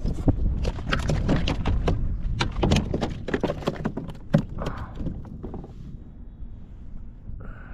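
Rapid, irregular knocks and rattles on a plastic fishing kayak as a just-landed trout is handled. They come thick for about five seconds, then thin out to a few scattered ticks.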